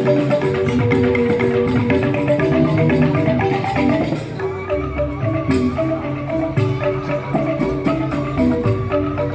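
Joged bumbung bamboo gamelan playing: rapid interlocking strokes on bamboo xylophones (grantang) over drum and percussion. The dense playing thins out about four seconds in, and a wavering high tone continues through the rest.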